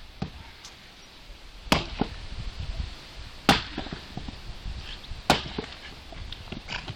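Axe chopping firewood: three heavy strikes, evenly spaced about two seconds apart, with lighter knocks of wood in between.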